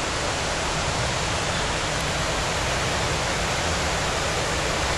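Waterfall: a steady, even rush of falling water, loud and unbroken.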